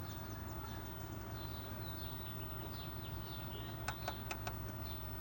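Small birds chirping in the background: a run of short, quick high chirps over a steady low hum. A few sharp clicks come about four seconds in.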